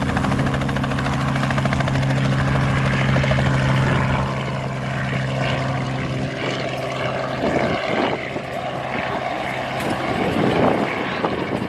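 Helicopter running close by: a rapid rotor chop over a steady engine hum. The engine tone stops about two-thirds of the way through, leaving fainter, uneven noise.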